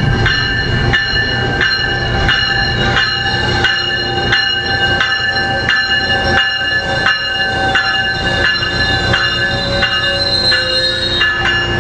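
Metrolink commuter train squealing as it runs into the station, several steady high squeals that drift and fade near the end, over the train's low rumble. An even clanking sounds about twice a second throughout.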